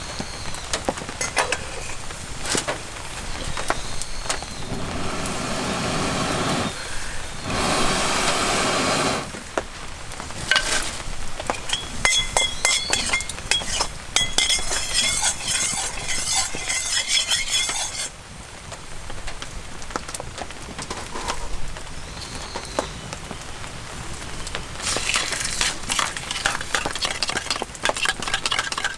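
Cooking in a wok over a campfire: a metal utensil clinks and scrapes against the wok, with stretches of food sizzling. The stirring gets busier and faster near the end.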